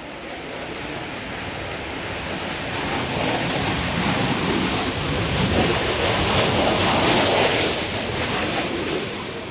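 Jet aircraft passing close by: the engine noise builds over about seven seconds, then fades.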